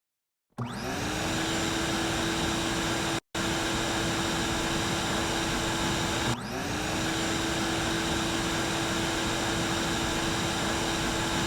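An electric motor appliance switching on with a rising whine, then running steadily with a constant hum and airy rush. It cuts out for an instant about three seconds in, and spins up again about six seconds in.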